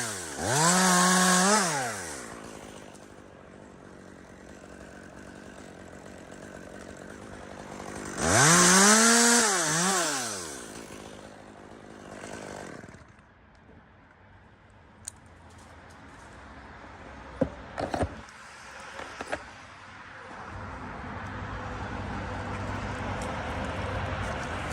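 Two-stroke chainsaw revved in two short bursts, the pitch climbing and dropping back each time. The first burst comes about half a second in and the second about eight seconds in, with the saw running quietly between them. Later come a few sharp knocks, and near the end a low steady engine drone rises.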